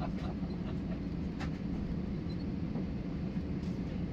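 Steady low rumble of an Airbus A320 cabin with the aircraft running before takeoff, with a light click about a second and a half in.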